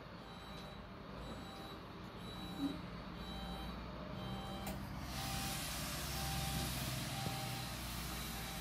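Recycling garbage truck reversing: its reversing alarm beeps at a steady pace, a little faster than once a second, over the low rumble of the diesel engine. About five seconds in, a steady hiss starts and runs on under the beeps.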